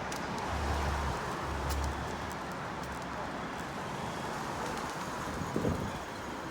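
Wind buffeting the microphone during a bicycle ride, over a steady rush of road noise, with low rumbles in the first two seconds and a single thump about five and a half seconds in.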